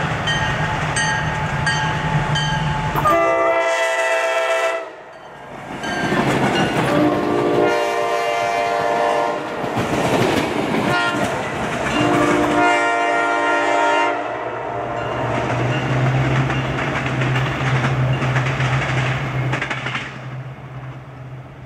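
Diesel locomotive sounding its multi-chime air horn in three long blasts while its engine runs and the train's wheels clatter over the rail joints as it passes.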